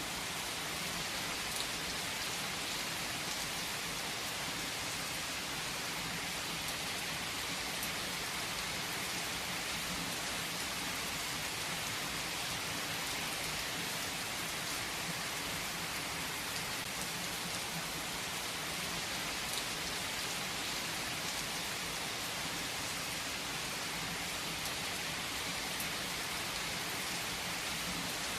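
Steady rain falling on a surface, an even hiss with a few faint drop ticks and no change in strength.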